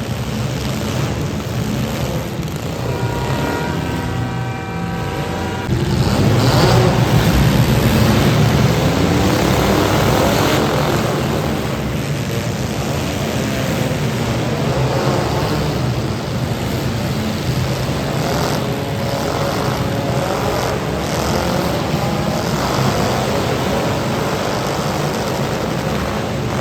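Demolition derby cars' engines running and revving together, growing louder about six seconds in.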